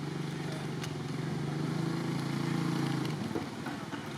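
A motor vehicle's engine running with a steady hum that stops about three seconds in.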